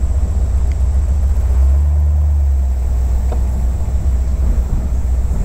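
Deep, steady sound of the 1956 Thunderbird's 312 V8 with dual exhaust running as the car is driven, heard from inside the open cockpit. It swells briefly about two seconds in.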